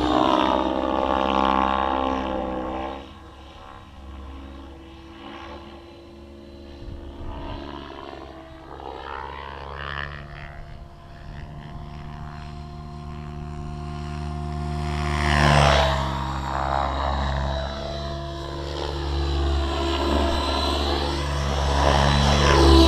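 Align T-Rex 700 Pro radio-controlled helicopter in flight, its rotors and drive making a steady pitched hum. It drops back after about three seconds, then grows louder as the helicopter comes close about fifteen seconds in, and again near the end.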